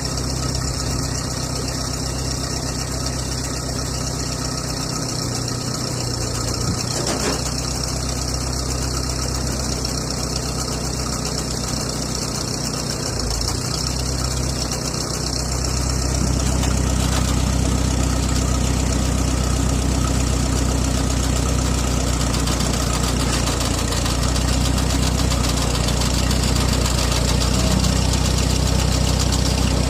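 Engine idling steadily, with a low hum that grows louder and deeper about halfway through.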